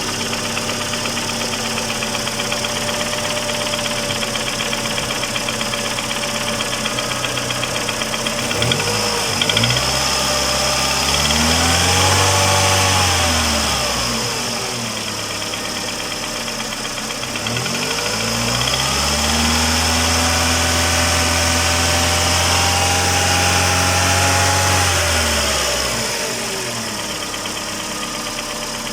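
Mercedes-Benz A140's 1.4-litre four-cylinder petrol engine idling, then revved twice. The first is a short rise and fall about ten seconds in; the second is held for several seconds before dropping back to idle. It runs without the hydraulic lifter clatter, the lifters having just been replaced.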